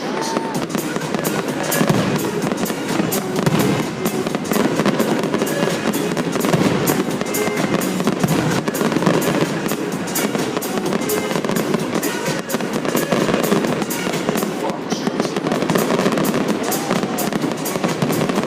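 Fireworks going off in rapid, crackling bursts, heard over music played for the show, with crowd voices mixed in.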